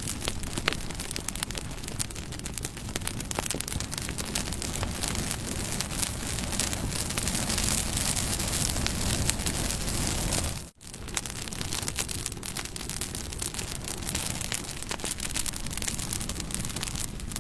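Wood campfire burning: a steady rushing hiss with frequent sharp crackles and pops of burning wood. The sound cuts out for an instant a little over halfway through.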